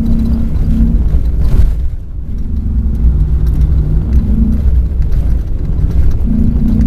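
Ford Raptor race truck's engine running hard off-road, a steady loud drone. About two seconds in it briefly eases off, then pulls again.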